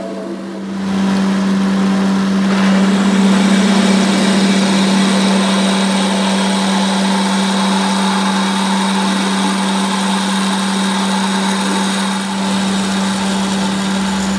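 Shop machine running with a steady hum, joined about a second in by a loud, harsh working noise from metal being worked, which stops just before the end.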